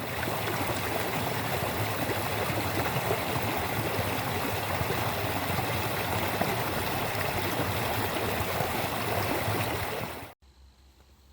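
Connecticut River water rushing and gurgling steadily, cutting off suddenly about ten seconds in.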